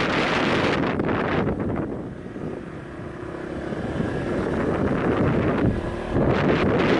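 Wind buffeting the microphone on a moving motorbike. The wind eases in the middle and the bike's small engine can be heard running underneath, then the buffeting comes back near the end.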